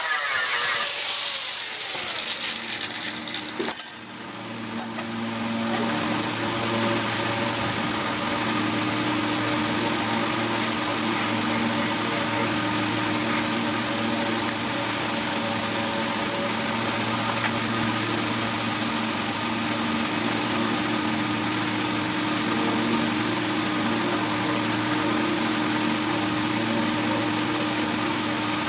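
A power tool's motor winds down over the first few seconds, then starts again about four seconds in and runs steadily with a constant hum.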